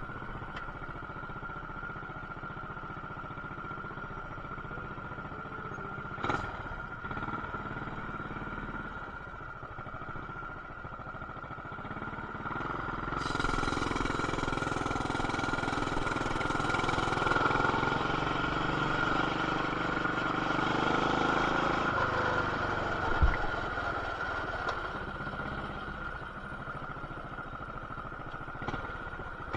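Coleman BT200X mini bike's single-cylinder engine, fitted with an aftermarket intake, header and RLV exhaust, running while being ridden, heard muffled through an action camera's plastic case. Partway through it gets louder as the throttle opens, then eases back near the end, with a sharp knock early on and another brief sharp sound later.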